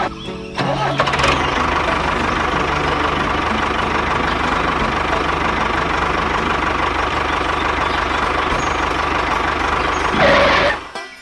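Small engine starting up about half a second in and running steadily, with a steady hum and low rumble; it swells briefly near the end, then cuts off.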